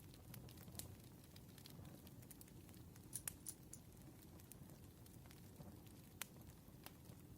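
Campfire crackling faintly: scattered sharp pops, a few close together about three seconds in, over a low steady rumble of the burning wood.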